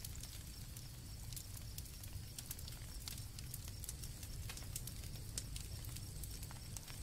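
Campfire crackling with irregular sharp pops over a low rumble of burning, with a faint steady high chirring of crickets behind it.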